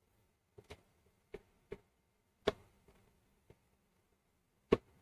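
A handful of short, sharp clicks at irregular intervals, about seven in all, the loudest about two and a half seconds in and another near the end.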